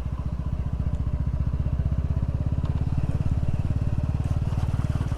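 Small single-cylinder motorcycle engine running steadily under way, its firing pulses even and regular.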